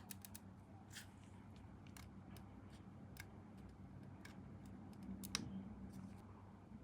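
Faint, scattered light clicks and ticks of small plastic model-kit parts and hobby tools being handled, the sharpest about five seconds in, over a faint steady low hum.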